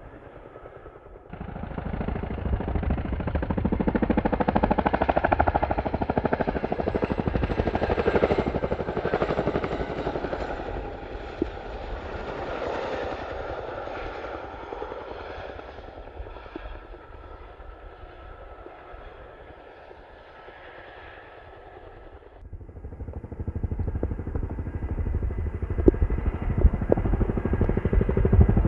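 Boeing CH-47D Chinook tandem-rotor military helicopter flying, with the rapid chop of its rotors over the engines' noise. It jumps louder about a second in, fades over the middle, then comes back loud suddenly near the end.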